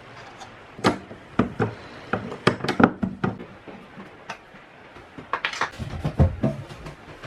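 Scattered knocks and clicks of a camper fridge's doors being lifted off their hinges and handled, busiest about five to six seconds in.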